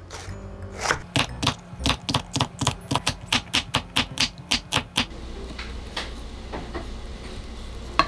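Kitchen knife chopping on a cutting board in fast, even strokes, about five a second, for about four seconds, then stopping. Background music with low, steady tones plays throughout.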